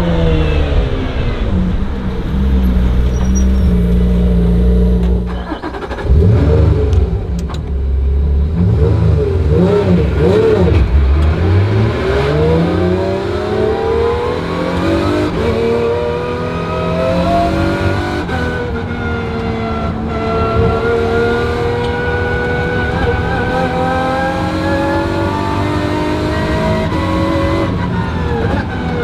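Lotus Emira GT4 race car's 3.5-litre supercharged V6 running hard on track. The revs fall at the start, the sound drops sharply for a moment about six seconds in, then the revs climb steadily and hold high before falling again near the end.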